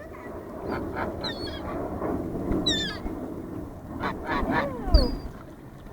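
Waterbirds at a feeding, ducks and gulls, calling over a steady background hiss: several short calls that fall in pitch, including a higher shrill call about two and a half seconds in. A loud thump comes about five seconds in.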